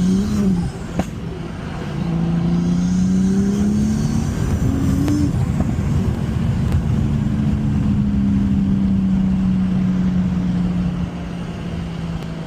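BMW N55 turbocharged straight-six with an upgraded big turbo, accelerating hard: the engine note climbs and drops sharply at gear changes about half a second in and again about five seconds in, then holds nearly steady before easing off near the end.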